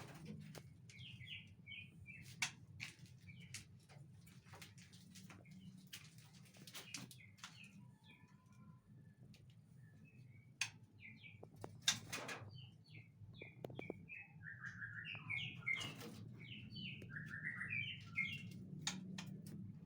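Caged white-rumped shamas (murai batu) chirping in short scattered calls, with more calls from about two-thirds of the way in, mixed with sharp clicks and a steady low hum.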